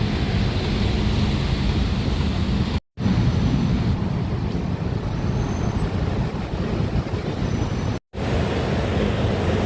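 Steady rumbling vehicle noise with wind on the microphone, broken twice by a brief dead gap where clips are spliced, about three seconds in and again about eight seconds in.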